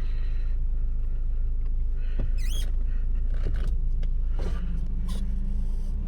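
1989 Toyota pickup's four-cylinder engine running with a steady low rumble, heard from inside the cab, with a few brief faint chirps and clicks over it.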